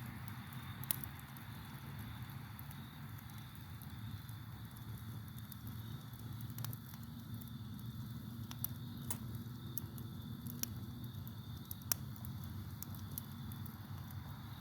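Campfire crackling with scattered sharp pops, the loudest about a second in and near the end, over a steady low rumble and a constant high trill of crickets.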